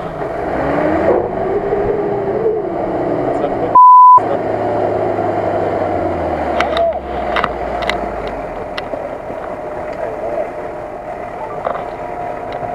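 Off-road 4x4 engines idling steadily under voices. A loud, single-pitch censor beep about four seconds in blanks out a word, and a few sharp clicks follow between about six and nine seconds in.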